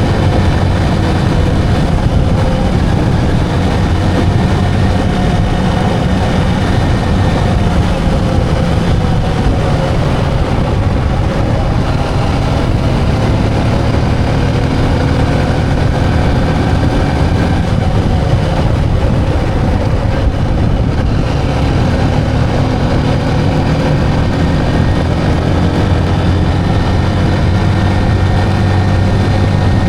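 Motorcycle engine running steadily while riding, its pitch drifting slightly up and down with speed.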